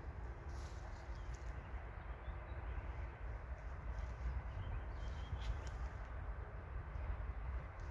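Low steady rumble with a few faint, short bird chirps now and then.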